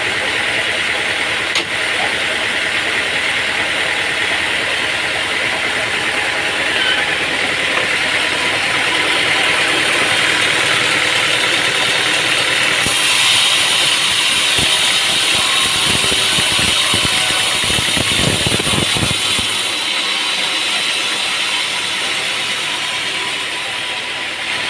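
Sawmill machinery running steadily with engine noise. About halfway through the sound turns brighter and a little louder for around six seconds, then settles back.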